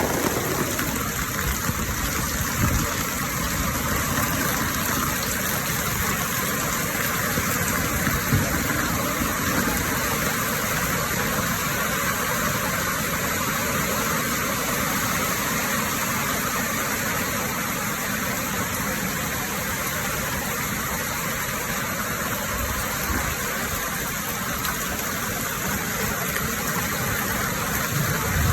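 Heavy rain pouring steadily, a dense even hiss of downpour with a few faint low knocks.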